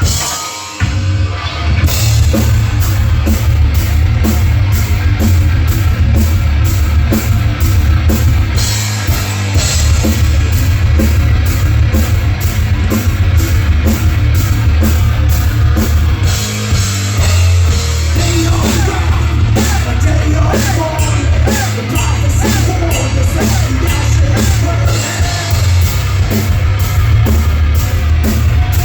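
Live heavy metal band playing with distorted guitars, bass and pounding drums at a steady driving beat, starting in full about two seconds in after a brief lull.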